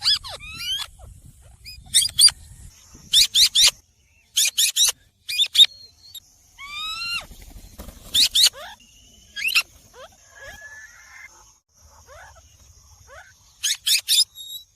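Green parrot screeching: sharp, shrill calls in quick groups of two to four, mixed with short falling whistles and, about halfway, one longer call rising in pitch.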